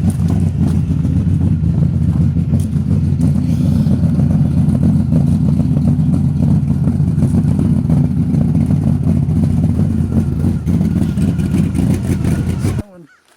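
Engine of a Chevrolet Suburban truck with a swapped motor, running loudly and steadily with a low rumble, just after being started up. It stops abruptly near the end.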